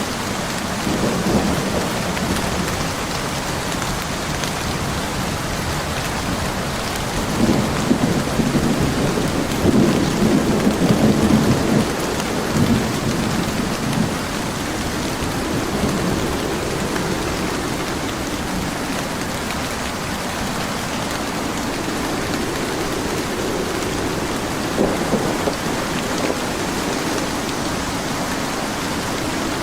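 Steady heavy rain falling, with thunder rumbling through it in several rolling swells, the longest and loudest in the middle.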